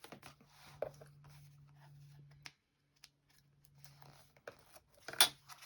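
Paper being handled: light rustling and crinkling with small taps, and one sharp click about five seconds in.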